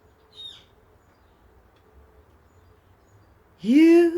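A pause with faint background hiss and a brief high chirp about half a second in, then a woman's singing voice sliding up into a held note near the end.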